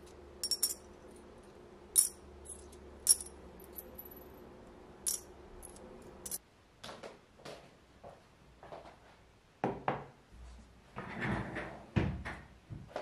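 Sharp light clinks and taps of small hard objects being handled, over a low steady hum that stops about six seconds in, followed by softer knocks and handling noise.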